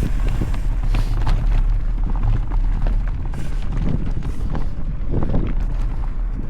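Wind buffeting the microphone over the rumble and rattle of a mountain bike riding a dirt trail, with scattered knocks and clicks from the bike over bumps.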